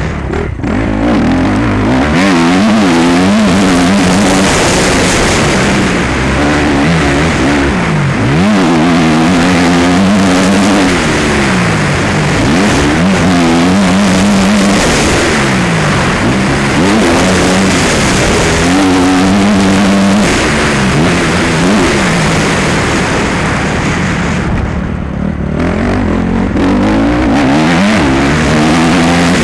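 Motocross motorcycle engine being ridden hard, its pitch repeatedly rising and falling as the throttle opens and shuts through the track's turns and jumps. It is loud, with a brief dip in the revs near the end.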